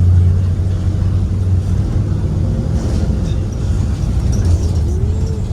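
Interior ride noise of a 2023 Blue Bird Vision school bus under way: the Ford 7.3L V8 petrol engine runs with a steady low drone over road rumble.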